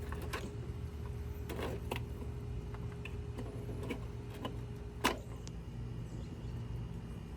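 A few sharp clicks and knocks as a pickup truck taillight is fitted into place, the loudest about five seconds in, over a steady low hum.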